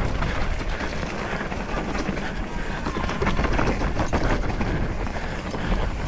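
Trek Slash full-suspension mountain bike riding a dirt trail: tyres rolling over dirt and rocks with constant rattling and clicking from the bike, and wind on the microphone.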